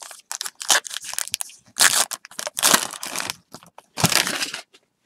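Foil trading-card pack wrapper being torn open and crumpled: a run of sharp crinkling rips, the loudest about two, three and four seconds in.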